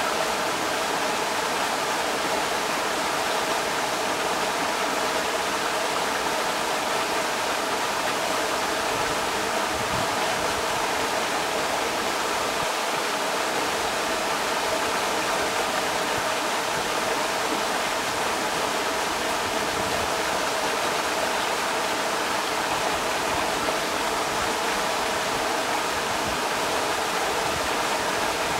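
Creek water rushing over rocks, a steady, unbroken rush.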